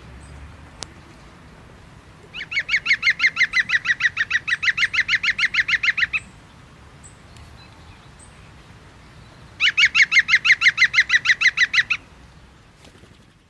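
A bird calling in two long bouts of fast, evenly repeated notes, about eight a second.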